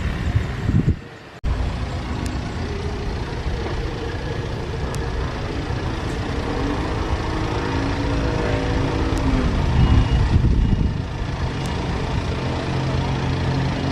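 Loud, steady engine rumble that cuts out briefly about a second in, with tones that slide up and down midway.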